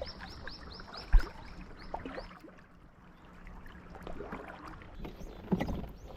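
Knocks and water sounds in and around a small boat, with one sharp heavy thump about a second in and smaller knocks near the end. A quick run of high repeated chirping clicks sounds in the first two seconds.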